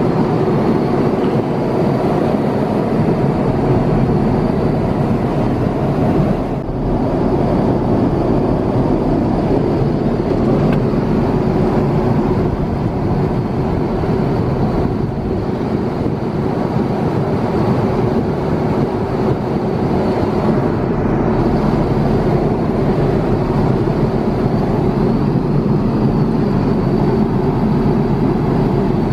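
Steady rumble and rush of jet cabin noise inside an Airbus A350-900, with a faint high whine over it.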